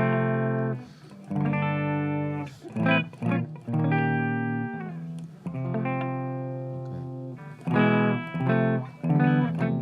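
Electric guitar played with a clean amp tone: a string of strummed and picked chords that ring out, changing about every second or two, in a romantic, Spanish-flavoured style.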